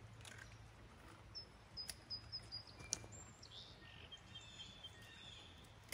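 Quiet outdoor ambience with faint, high bird chirps and a warbling call in the background, broken by a few sharp clicks of pruning shears snipping peach tree branches.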